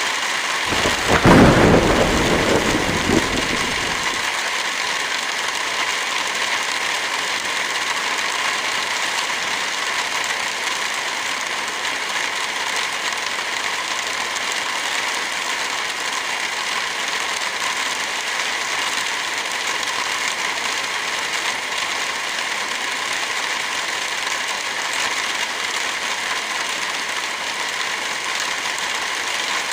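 Heavy rain falling steadily, with a low rumble of thunder starting about a second in and dying away after about three seconds.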